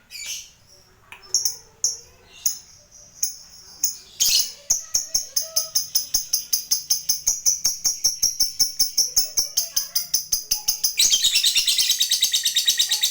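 Lovebird ngekek: a few scattered high chirps, then from about four seconds in a long, even chattering trill of sharp high notes, about five or six a second, which turns louder and denser near the end.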